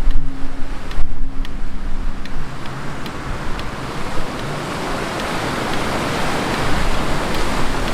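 Rough surf: a wave breaking and washing up the beach, its hiss building from about two seconds in and strongest near the end. Strong wind rumbles on the microphone throughout.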